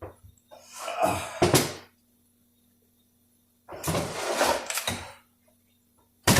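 Workshop handling noises from transmission parts and tools being moved on the bench: two rattling, scraping bursts about a second long each, then a sharp knock near the end.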